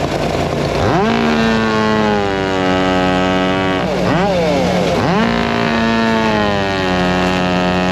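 A chainsaw revved up to full throttle twice, each time held for a few seconds with the pitch sinking slowly, then let off between. Other engines drone steadily underneath.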